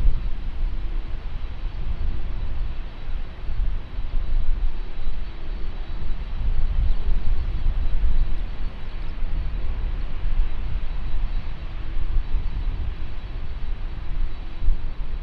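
Jet airliner engines making a steady, heavy low rumble, with a faint high whine held throughout.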